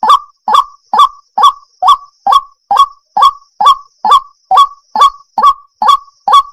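Waterhen calling: a loud, rhythmic series of short, harsh, honking notes, about two a second, each rising sharply in pitch.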